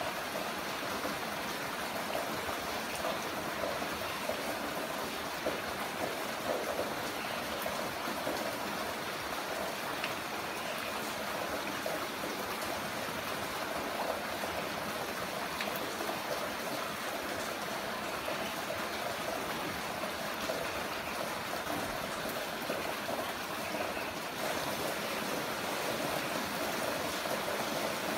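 Heavy rain falling steadily, an even dense hiss with faint scattered drop ticks.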